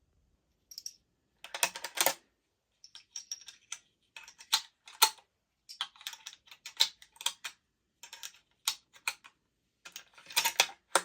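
Small metal parts being handled during rifle cartridge reloading: an irregular run of sharp clicks and clinks, some in quick clusters, like brass cases knocking against each other and the bench.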